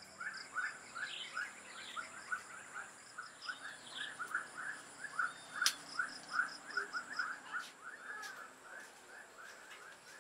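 A bird calling in a long run of short, quick notes, about three or four a second, that fades out near the end, with a few higher chirps from other birds.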